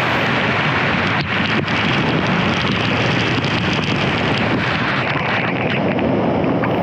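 Steady rush of falling water from a waterfall, an even noise with no break.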